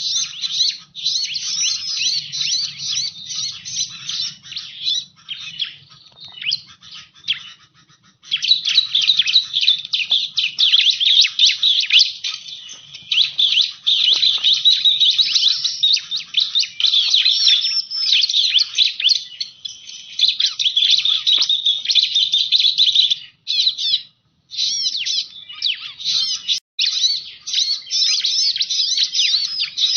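Bar-winged prinia (ciblek) calling: a dense, fast run of high-pitched chirps and trills, breaking off briefly about 8 seconds in and again around 24 seconds.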